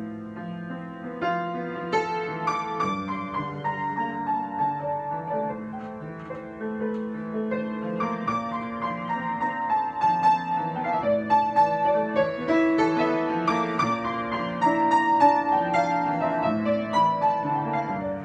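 Solo piano improvisation: held low chords under a melody line of struck notes, growing a little louder around the middle.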